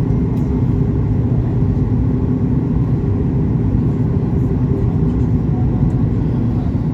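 Steady low rumble inside the passenger cabin of a Boeing 737 MAX 8-200: the noise of its CFM LEAP-1B engines and the airflow, running evenly with a faint steady hum.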